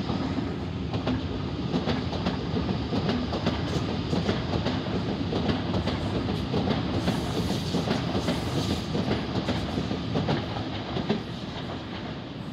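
Waratah double-deck electric passenger train running past close below, with a steady rumble and many sharp clicks as its wheels go over the track.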